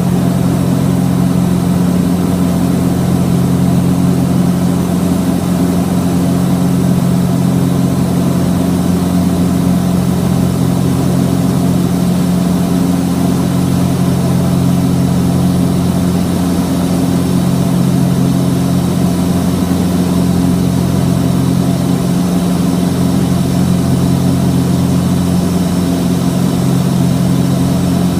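Cessna 421's twin geared piston engines and propellers running at steady power, a loud, even drone with a low hum that does not change.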